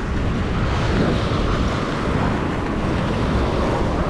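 Steady surf washing in, with wind rumbling on the microphone.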